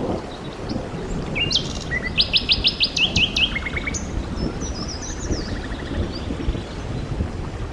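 A songbird singing a quick run of rapid chirps about a second and a half in, then a shorter, higher phrase, over a steady hiss of rain with a low rumble.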